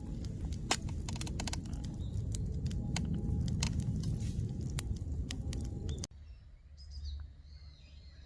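Wood campfire crackling: sharp pops and snaps over a low rumble. It cuts off abruptly about six seconds in, giving way to faint birds chirping.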